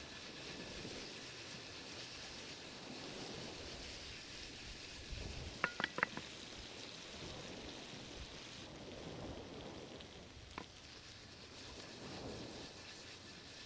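Salmon cooking over a campfire, a steady sizzling hiss. A quick cluster of three or four sharp clicks comes about halfway through, and a single click follows a few seconds later.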